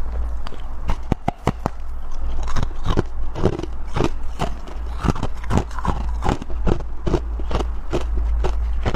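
Close-up crunching of freezer frost and soft powdery ice chunks being bitten and chewed, in irregular crunches several a second, over a low steady rumble.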